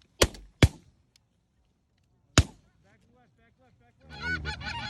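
Three shotgun shots, two in quick succession and a third about two seconds later, followed near the end by a flock of geese breaking into loud, continuous honking.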